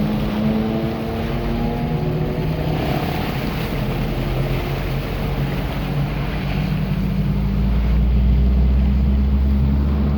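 A motor vehicle's engine running steadily under a continuous rushing noise, with a deeper, louder rumble coming in about seven to eight seconds in.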